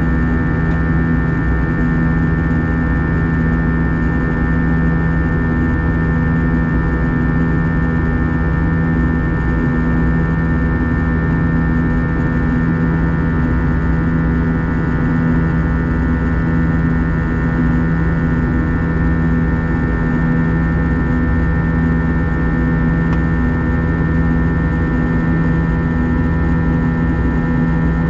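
Airbus A321 cabin noise in flight: the twin jet engines and airflow make a steady drone with a constant hum.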